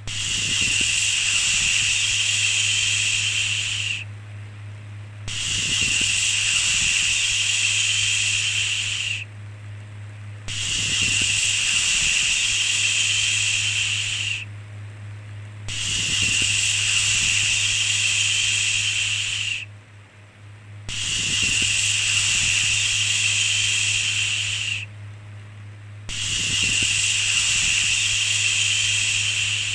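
A long shushing "shhh" sound, repeated about every five seconds: each shush lasts about four seconds, followed by a short pause. A steady low hum runs underneath.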